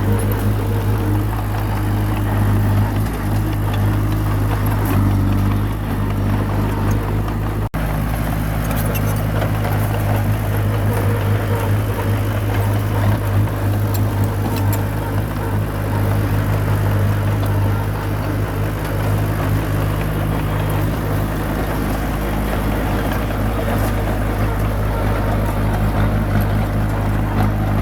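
Bulldozer's diesel engine running steadily under load while pushing soil, with a brief break about eight seconds in.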